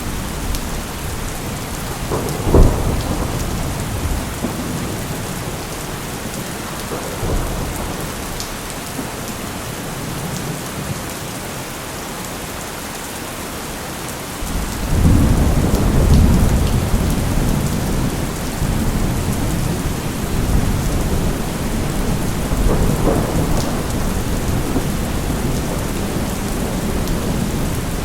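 Steady rain with thunder. A sharp thunderclap comes about two and a half seconds in, and a long, low rolling rumble of thunder starts about halfway through, with more rumbling near the end.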